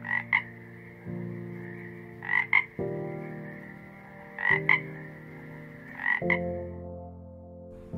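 Short croaking calls in pairs, four pairs about two seconds apart, over a steady high-pitched trill that fades near the end, with soft sustained music chords underneath.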